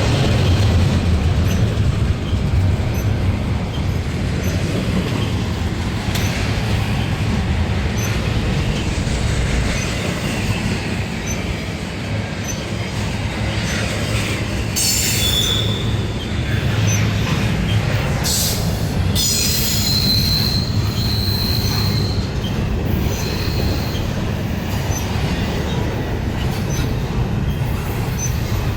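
Intermodal freight train's cars rolling past, a steady rumble of wheels on rail. About halfway through there are high wheel squeals, one held for a few seconds.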